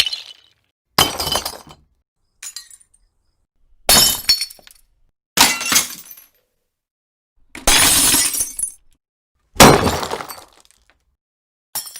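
A series of about seven separate glass smashes, each a sudden crash of shattering glass that dies away within about a second, with silence between them; the one about two-thirds of the way through runs longest.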